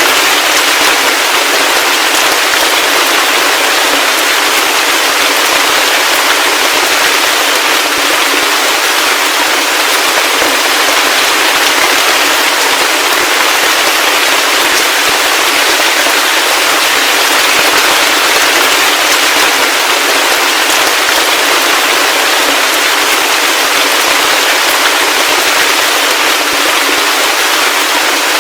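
Heavy rain falling, a loud, steady wash of drops that does not let up.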